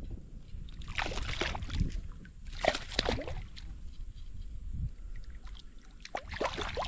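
Water sloshing and splashing beside a kayak as a largemouth bass is brought in, with several short splashes and light knocks.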